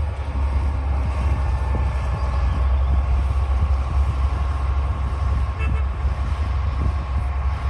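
D60 crawler bulldozer's diesel engine running under work with a steady low rumble, with faint whining tones on top.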